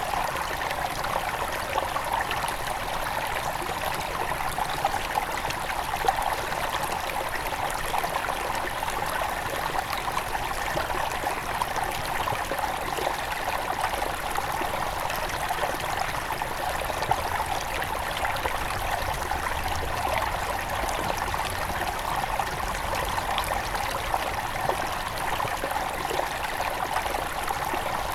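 Small headwater river flowing steadily, a continuous babbling rush with fine trickling.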